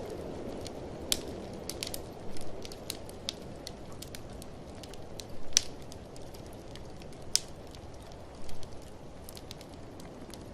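Wood fire crackling and popping in a fireplace, with irregular sharp snaps, a few louder pops, over a steady rushing of blizzard wind.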